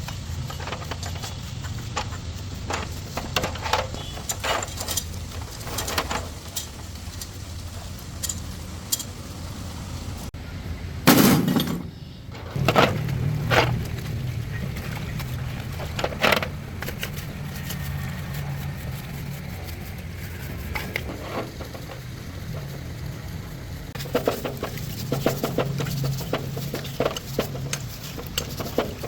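Scattered metal knocks and clinks of hand tools at work on a truck's rear differential, over a steady low hum; the loudest knock comes about eleven seconds in, with a few more soon after.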